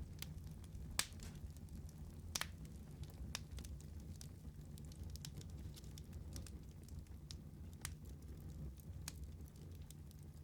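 Wood fire crackling: a steady low rumble of burning with scattered sharp pops, the loudest about a second in and another a little later.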